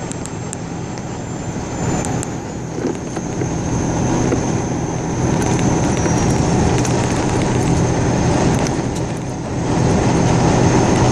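Steady drone of a vehicle's engine and tyre noise, heard from inside the cabin while driving.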